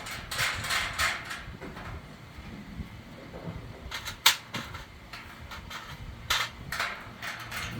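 Irregular scraping and clicking of objects being handled and knocked together, with one sharp click about four seconds in.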